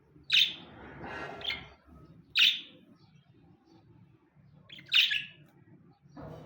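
Pet budgerigars chirping: three loud, short chirps a couple of seconds apart, with quieter chattering after the first.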